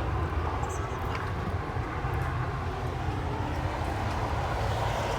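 Car engines running steadily as vehicles drive past on a highway on-ramp, a continuous low rumble.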